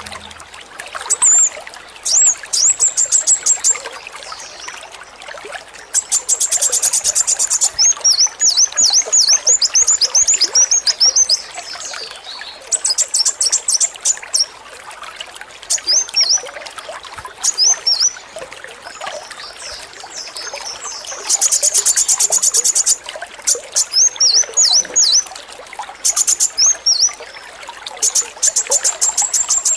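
Kolibri wulung (sunbird) singing over steadily trickling water. Several bursts of a very fast, high rattling trill, the machine-gun-like 'AK-47' call, alternate with runs of short, sharp high chirps.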